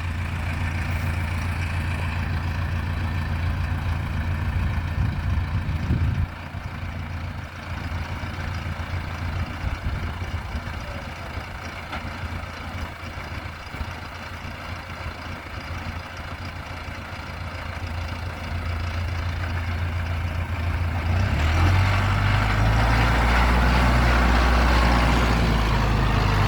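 Mahindra tractor's diesel engine running steadily with its post-hole digger. It eases off about six seconds in. In the last five seconds it grows louder and harsher, with a deeper note.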